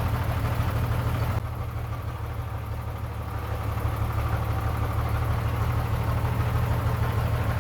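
Heavy diesel engine of a construction machine running steadily at low revs. The sound drops a little about a second and a half in, then slowly builds back.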